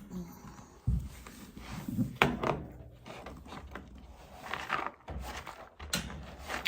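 Handling noises from tidying up: a few irregular knocks and thumps, with rustling in between as things are moved about.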